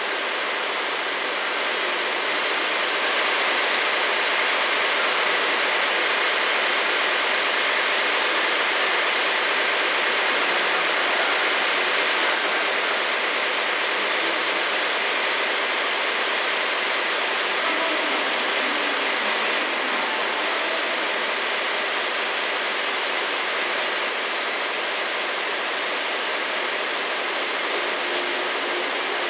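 Steady rushing noise of the ex-JNR KuMoYa 443 electric inspection train rolling slowly into a station platform. The level stays almost even throughout, with no horn or distinct clatter standing out.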